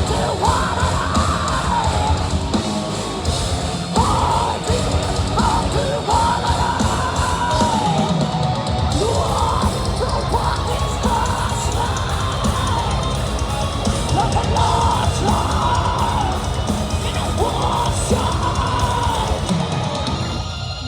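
Heavy metal band playing live: a drum kit pounding under distorted guitars and bass, with a female vocalist singing long, bending melodic lines over the top.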